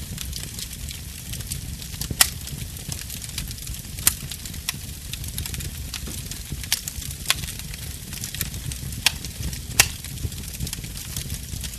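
Fire in a fireplace crackling: a steady low rumble and soft hiss, with about half a dozen sharp pops scattered through, the loudest near the end.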